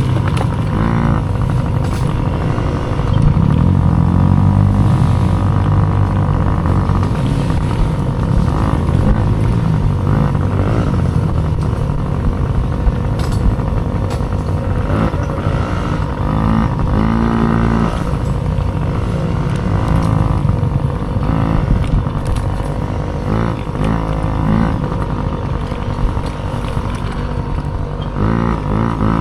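Mini dirt bike engines racing, revving up and falling back again and again, over a steady high tone.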